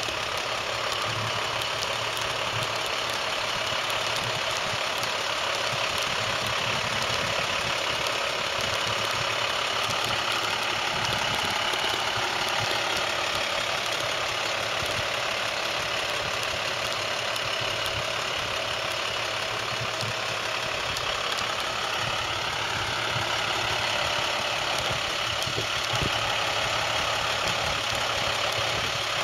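International 4300 delivery truck's diesel engine idling steadily.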